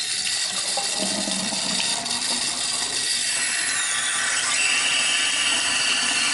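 Tap water running steadily into a pedestal sink bowl that is not draining, because the drain below it is blocked. The sound turns brighter about two-thirds of the way through.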